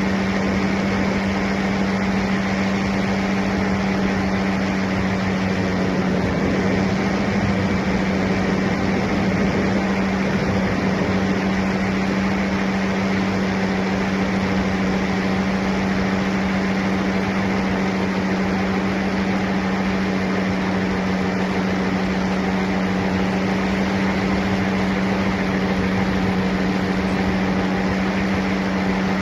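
Paramotor engine and propeller running at a steady throttle: a constant drone that holds one pitch throughout, with a rushing noise underneath.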